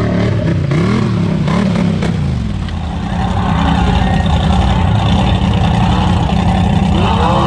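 Mega truck engine revving up and down several times, then running steadily and louder from about three seconds in.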